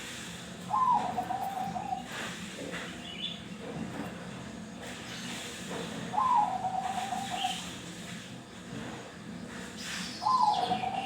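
Zebra dove (perkutut) cooing: three phrases about five seconds apart, each a short higher note running into a quick rolling trill of lower coos.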